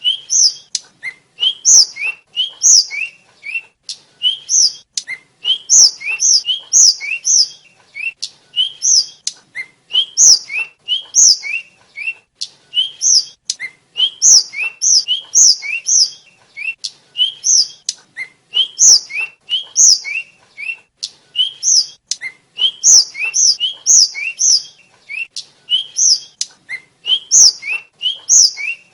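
Tledekan flycatcher (sikatan) singing: quick, high, upslurred whistled notes, each lower note answered by a higher one, repeated over and over without a break.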